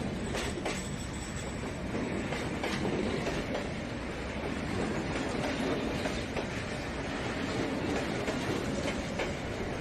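Kovai Express coach running along the track, heard from on board: a steady rumble with a light clatter of the wheels over the rails.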